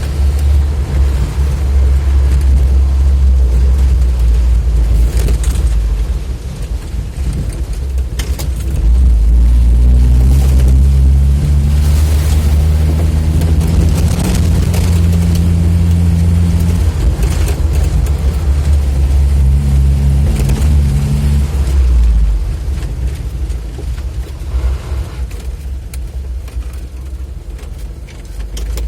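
UAZ-469 engine running on the move, a loud low drone that picks up about nine seconds in and eases off after about twenty-two seconds.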